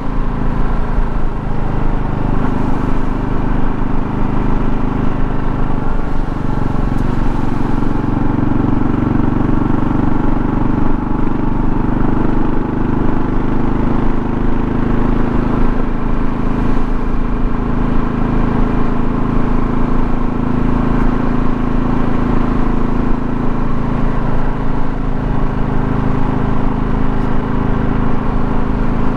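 Kawasaki KLR650's single-cylinder engine running at a steady cruise, with wind and road noise from the ride.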